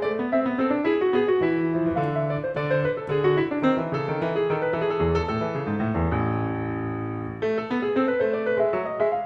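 Calm piano background music: a flowing run of notes, with one chord held for over a second about six seconds in before the notes pick up again.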